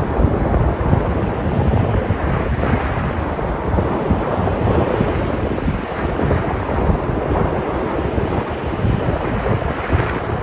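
Sea surf breaking and washing on the shore in a steady, loud rush, with wind buffeting the microphone.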